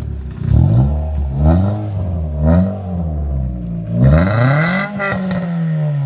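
Car engine revved in short blips about once a second, then one longer, louder rev about four seconds in that ends in a few sharp exhaust cracks as the revs fall away.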